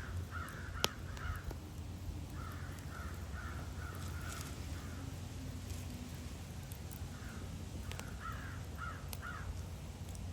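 Crows cawing in three runs of quick repeated calls over a steady low rumble, with a few sharp crackling pops from the wood fire.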